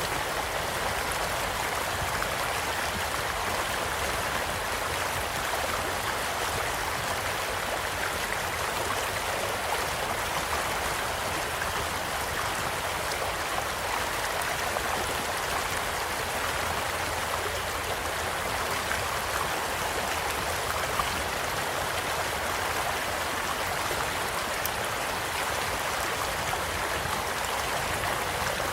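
A small stream flowing steadily, with a few faint pops from a crackling campfire, the clearest about two-thirds of the way through.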